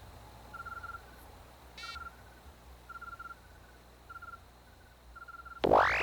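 Short insect-like chirping trills, each a quick run of pulses, repeating about once a second over a low hum in a quiet gap between tunes. Near the end a loud swelling dub effect sweep cuts in and holds, opening the next track.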